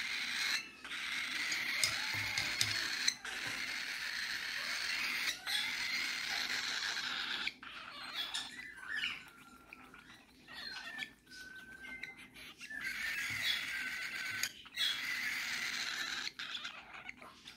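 Raspy, nearly continuous begging calls of a hungry baby bird being hand-fed. The calls break into shorter chirps and squeaks for a few seconds in the middle, then run on steadily again.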